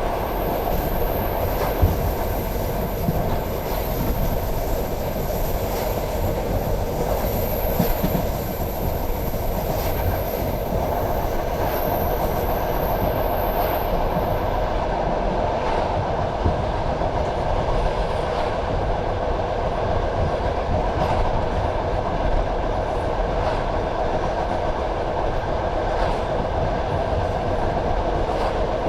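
Passenger train carriage running along the track: a steady rumble of wheels on rails with scattered clicks of the wheels over rail joints. A thin high whine sounds over the first half and stops about halfway through.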